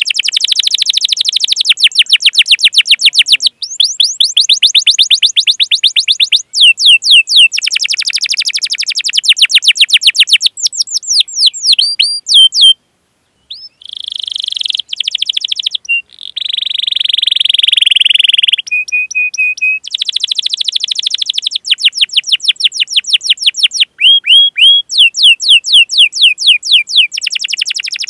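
Domestic canary singing a long, loud song: fast trills of rapidly repeated sweeping notes, broken by a short pause about thirteen seconds in, followed by a harsher buzzing phrase and then more rapid trills.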